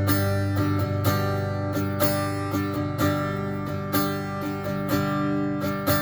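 Fender Acoustasonic Stratocaster strummed through its modelled acoustic voice, set to a blend between the small-body walnut and mahogany dreadnought voices. Chords ring on, with a strong strum about once a second and lighter strokes between.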